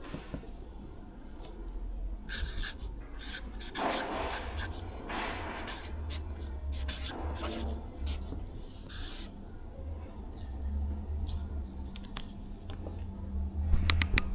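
Irregular scraping and rubbing of goods being handled and moved, over a steady low rumble, with a few sharp knocks near the end.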